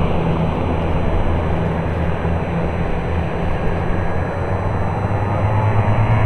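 Twin Pratt & Whitney Canada PT6A-67R turboprop engines of a Basler BT-67 (turbine DC-3) running loud at the start of its takeoff: a steady, dense drone of turbine and propeller noise whose low tone rises in pitch near the end.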